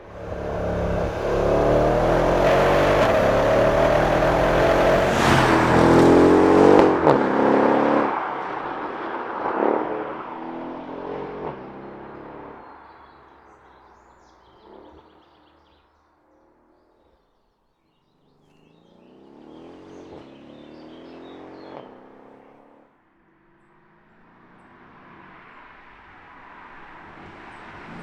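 2014 Mercedes-Benz CLS63 AMG Shooting Brake's twin-turbo V8 accelerating hard, its pitch rising through the gears with a couple of sharp cracks, then fading away into the distance. After a brief hush, a second, quieter acceleration rises and cuts off, with faint bird chirps in the background.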